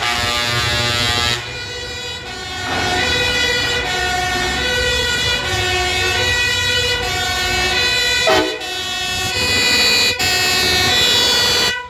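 Truck air horns honking together, several pitches overlapping and changing every second or so. One tone makes a quick falling swoop about eight seconds in, and the horns stop abruptly at the end.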